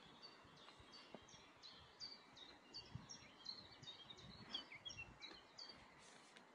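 A songbird singing faintly: a long run of short, high chirps, about three a second, ending in a few lower notes near the end.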